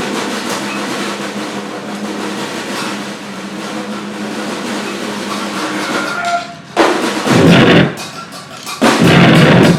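Live noise-grind improvisation: a dense wash of noise with a faint steady low drone, then two loud blasts of drumming and noise, about seven seconds in and again near the end.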